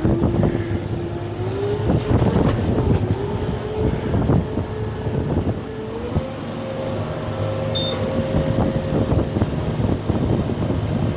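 Kubota M6-141 tractor's diesel engine working under load, its steady whine stepping up in pitch about two seconds in and again about six seconds in, with irregular sharp cracks and knocks throughout.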